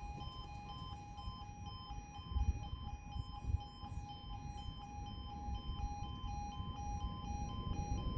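Railway level crossing alarm sounding: a two-tone warble switching between a lower and a higher tone about twice a second, with a low rumble underneath.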